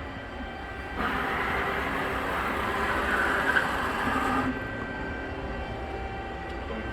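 Amada RG-80 hydraulic press brake running, its 7.5 hp hydraulic pump giving a steady low hum. A louder rushing hiss starts about a second in and stops after about three and a half seconds.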